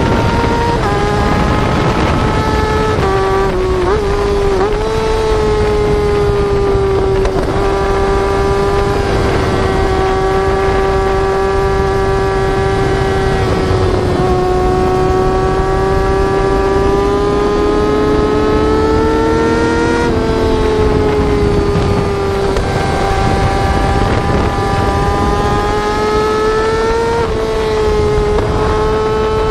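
Sport-bike engine sound of the kind dubbed on as a Yamaha R6 exhaust, held at high revs under a steady cruise, with rushing noise underneath. The note dips briefly a few seconds in, then drifts slowly up and down, easing upward near the end.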